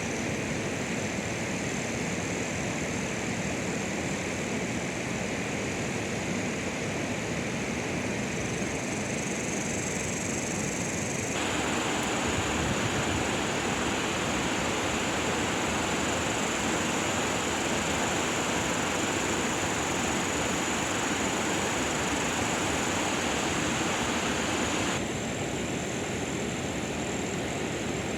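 Steady rain hiss, which becomes louder and fuller abruptly about eleven seconds in and drops back shortly before the end, with a thin, steady high tone above it.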